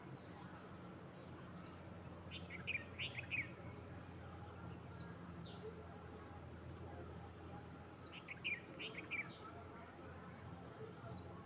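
A bird singing two short phrases of quick, falling chirps, the second about six seconds after the first, with a few fainter high notes between, over a steady low background hum.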